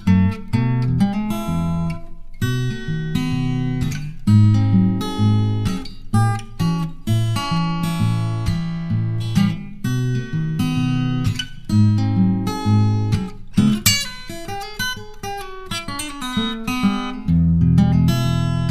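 Acoustic guitar music, strummed and picked, with a steady rhythm and a strong low bass line.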